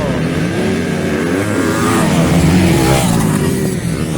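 A pack of motocross dirt bikes revving and accelerating together off the start, several engine notes rising and falling over one another, loudest about two to three seconds in.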